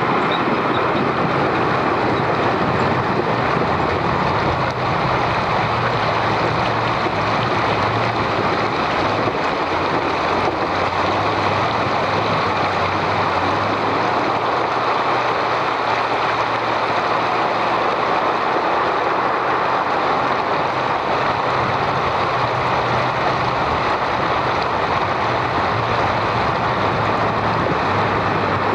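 Heavy truck engine running steadily as the truck drives, a low drone under a constant rushing noise.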